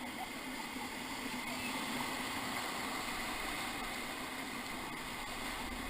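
Steady rush of the Ocoee River's flowing water around a raft.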